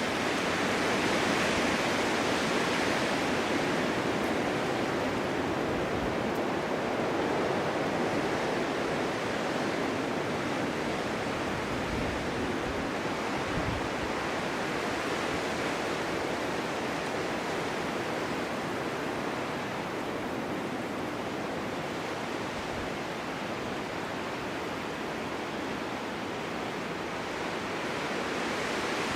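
Winter snowstorm wind blowing steadily, a continuous rushing noise that swells and eases slowly, dipping a little past the middle and building again near the end.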